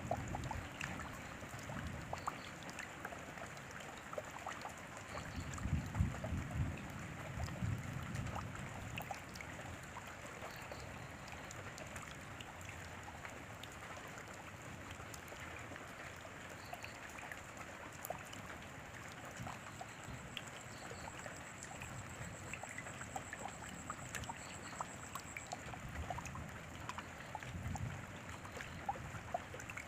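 Steady rain falling, with many small drops ticking against surfaces. A low rumble swells twice, around six seconds in and near the end.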